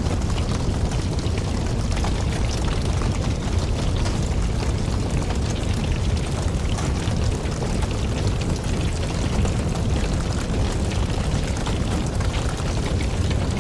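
Wood logs burning in a campfire: a steady low rumble of flame with many small crackles and pops throughout.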